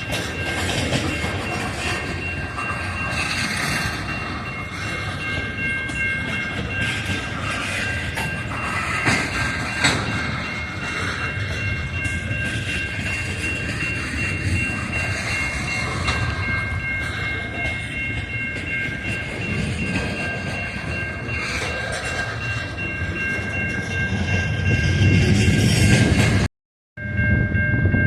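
A train rolling past, a steady rumble with clatter and several steady high-pitched tones held through most of it. The sound drops out for a moment near the end.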